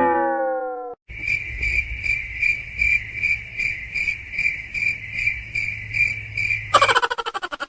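Cricket chirping: a steady run of high chirps, about two or three a second, broken near the end by a short, rapid rattling sound. A ringing note fades out in the first second.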